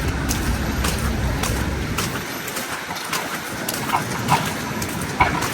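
Footsteps crunching in snow, about two steps a second, over city street noise with a low rumble that drops away about two seconds in.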